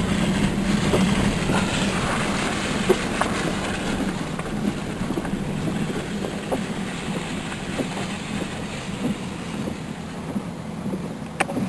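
A vehicle's engine running with a steady hum, with irregular rattles and clicks throughout and two sharper clicks near the end.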